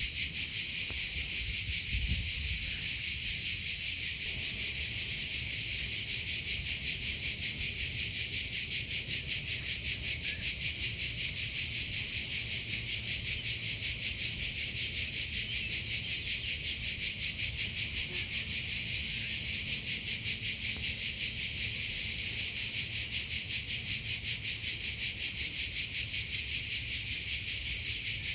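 Crickets chirping without pause: a steady, high-pitched trill with a fast, even pulse.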